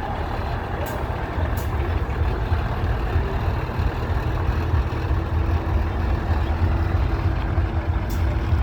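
Truck engine running steadily with a low rumble, with a few short clicks.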